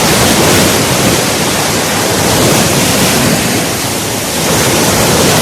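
Sea waves breaking, with wind rushing over the microphone: a loud, steady hiss that eases briefly about four seconds in.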